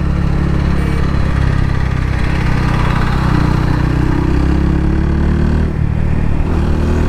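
Yamaha FZ25 motorcycle's single-cylinder engine running steadily while being ridden, its pitch creeping up slightly through the middle as it gathers speed, with wind rushing over the microphone.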